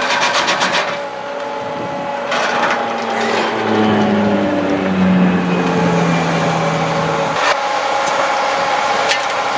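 Heavy machine running, its engine pitch shifting up and down, with a few sharp knocks.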